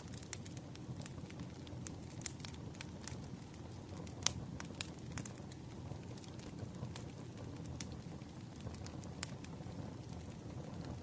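Wood fire crackling, with irregular sharp pops over a steady low rush; one pop about four seconds in stands out.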